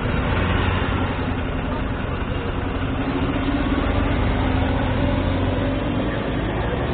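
Street traffic with a motor vehicle's engine idling close by, steady low engine noise with a faint held hum.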